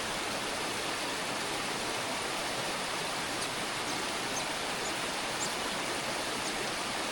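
Steady rushing hiss, like running water, with a few faint, short, high-pitched bird chirps scattered through it.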